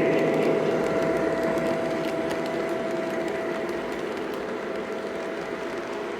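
Lionel Legacy Southern E6 O-gauge diesel locomotives running on the layout: the steady drone of their onboard diesel sound over the rumble of wheels on track, slowly fading.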